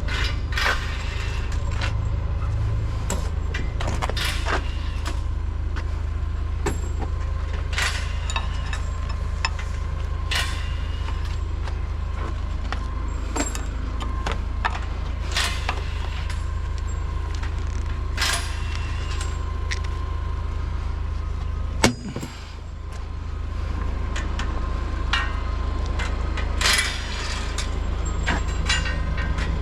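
A heavy diesel engine running steadily, with scattered metallic clanks and knocks over it. About three-quarters of the way through there is one sharp bang, after which the engine sound dips and builds back up.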